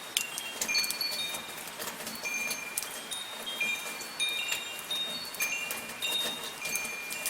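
Wind chimes ringing, struck irregularly, with high overlapping tones that ring on and fade, over the soft steady hiss of light rain and sharp ticks of raindrops.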